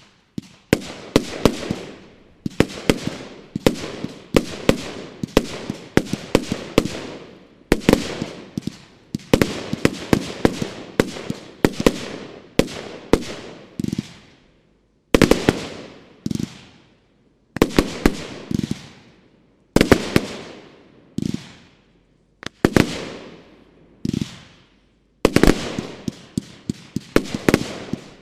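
Professional Style Ghost Blaster, a 100-shot 30 mm firework battery, firing: rapid volleys of sharp bangs, each trailing off, coming in clusters with a few short pauses between them.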